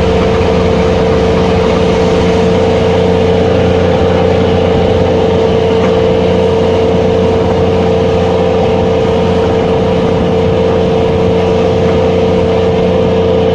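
Fishing vessel's engine running with a steady drone and a strong unchanging hum.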